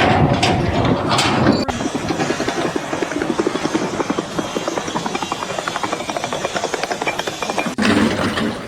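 A machine running with a fast, even chopping pulse, which starts abruptly about two seconds in and stops abruptly shortly before the end.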